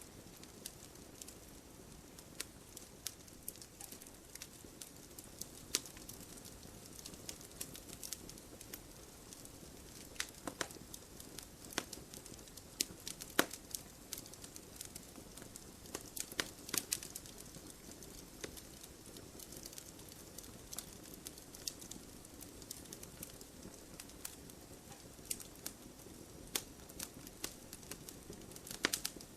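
Wood crackling and popping as it burns in a wood stove: scattered irregular snaps, a few louder pops, over a soft steady rumble of the fire.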